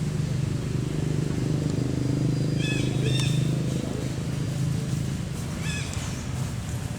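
Short, high-pitched squeaky monkey calls, a few about three seconds in and one more near the end, over a steady low rumble.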